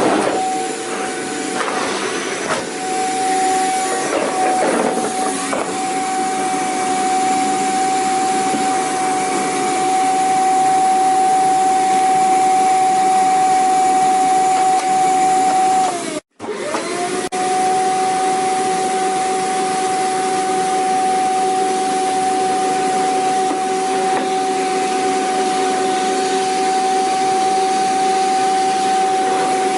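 Vacuum cleaner running: a steady high motor whine over a rush of air, with some irregular rattling in the first few seconds. About halfway through, the sound cuts out for a moment, and the whine sweeps back up to pitch as it resumes.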